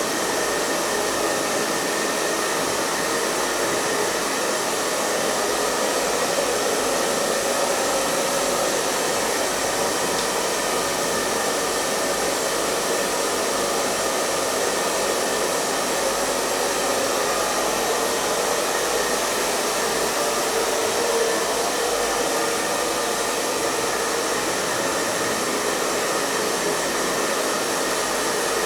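Hair dryer running steadily: an even rushing blow of air over the hum of its fan motor, with no change in speed.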